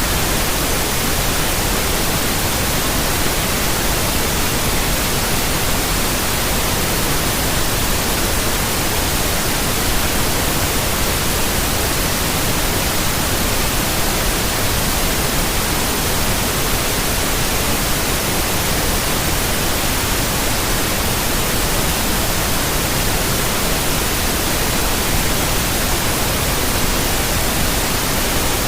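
Steady white noise: an even, unchanging hiss spread across the whole range of pitch.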